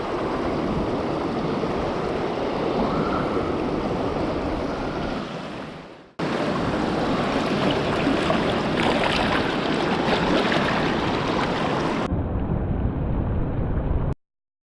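Rushing water of a fast-flowing, rain-swollen stream, a steady roar. It fades out about six seconds in, comes back abruptly, turns duller near the end and then cuts off suddenly.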